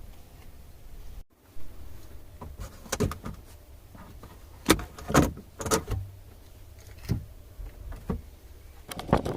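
Scattered sharp clicks and metal clanks of tools and parts being handled during work on a car's 12-volt auxiliary battery, with the loudest few close together near the middle.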